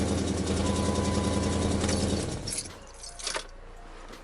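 Car engine idling steadily, then shut off about two seconds in, followed by a short jingle of keys.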